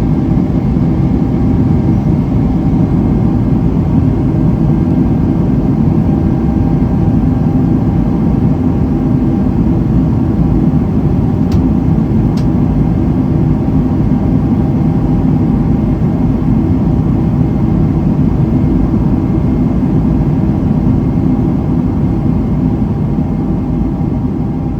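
Boeing 777-300ER cabin noise in flight: a loud, steady drone of the GE90-115B engines and airflow with a constant low hum. Two faint clicks come about halfway through.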